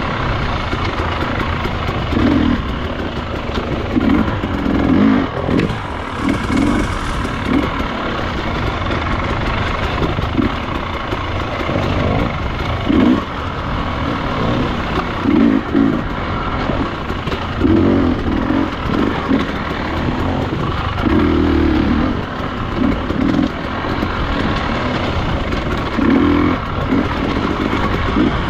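Enduro motorcycle engine running and revving in repeated short bursts, over a steady rush of noise.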